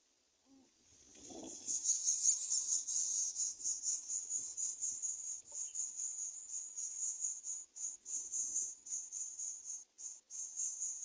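Greater coucal nestlings begging with a high, rasping hiss, repeated in quick pulses, a few a second. It starts abruptly about a second and a half in, just after a brief lower sound.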